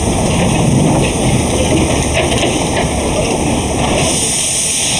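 Loud, steady rushing noise from a heritage railway locomotive at close range, with a sharper high hiss coming in about four seconds in.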